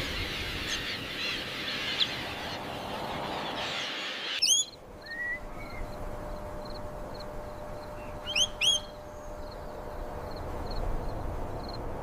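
Birds calling: a chirping haze that dies away about four seconds in, then a loud, sharp rising whistle, and a pair of similar whistles about eight and a half seconds in, over a run of short, high peeps repeating about once a second.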